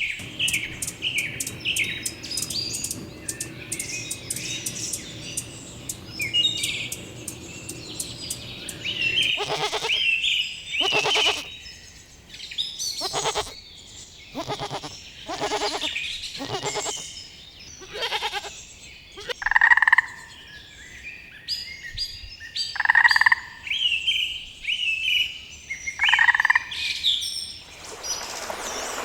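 Small birds chirping and twittering. About ten seconds in, a run of evenly spaced animal calls begins, roughly one a second, followed by a few louder single calls.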